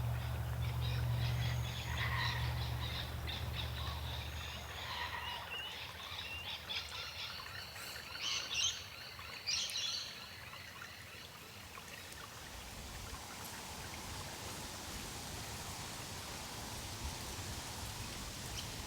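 Birds calling and chirping outdoors, with two louder sharp calls near the middle, over a low steady hum that stops about a quarter of the way in; after that only a faint even outdoor hiss.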